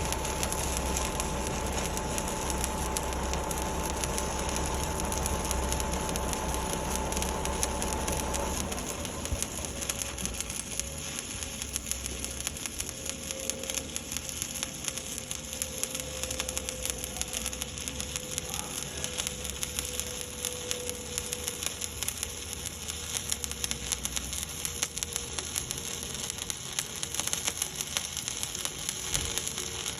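Stick welding with 1/8-inch 7018 electrode at about 124 amps: the arc crackles steadily. Under it a steady machine hum and low rumble drop in pitch and loudness about eight seconds in.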